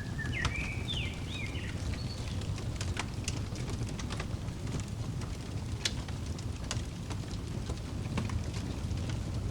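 Wood fire crackling, with scattered sharp pops over a steady low rumble. A bird sings a short chirping phrase in the first two seconds.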